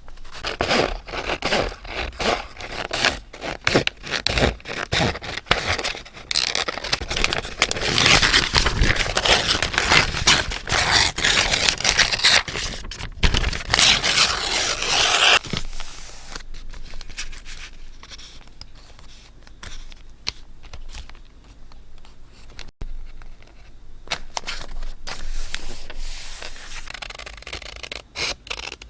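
Paper being handled for scrapbooking: crackling, rustling and scraping, with a louder continuous scrape from about six seconds in that cuts off sharply about fifteen seconds in, followed by softer scratching.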